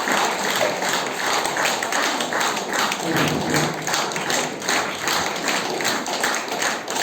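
Concert audience applauding, clapping together in a steady rhythm of about three claps a second.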